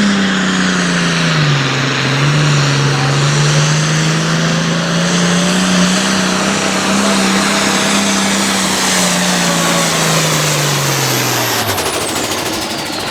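Altered farm pulling tractor's diesel engine running at full throttle under load as it pulls the sled, its pitch dipping about a second and a half in and then holding steady. Near the end the engine drops and shuts off, and a high whine falls away in pitch as it winds down.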